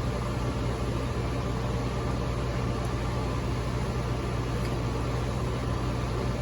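HVAC unit running: a steady low hum with an even hiss over it, unchanging throughout.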